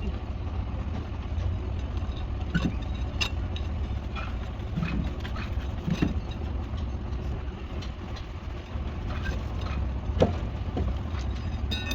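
A steady low engine rumble, like an idling engine, with a few short knocks or clanks scattered through it.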